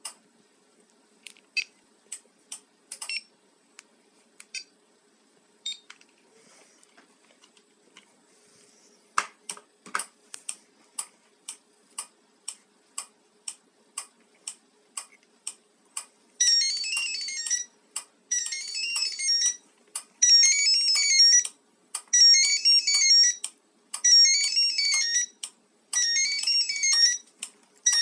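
Two-way car alarm key fob's small speaker giving short beeps, about two a second, then from a little past halfway a warbling electronic melody that repeats in bursts of about a second and a half, six times.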